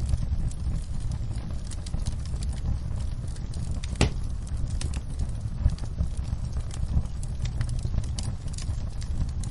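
Wood fire crackling: a steady low rumble with scattered small pops and one sharper pop about four seconds in.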